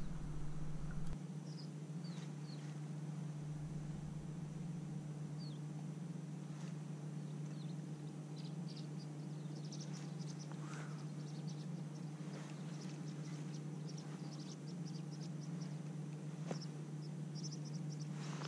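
Faint bird chirps scattered over a steady low hum, with a few light clicks.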